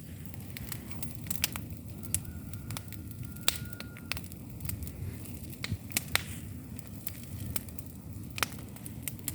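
Bonfire of plastic television casings burning: sharp crackles and pops at irregular intervals over a steady low rumble.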